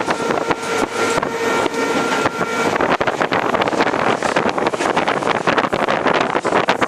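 Express train running at speed in ICF coaches: wheels clattering and coaches rattling, with wind buffeting the microphone. A horn sounds one steady note for about two and a half seconds at the start, then stops.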